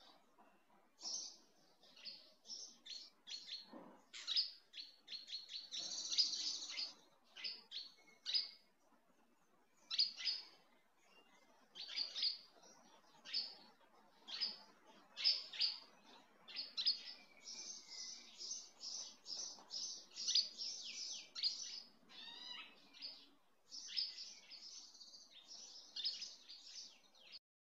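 Small birds chirping and twittering, a busy run of short high calls with a rippling trill near the end.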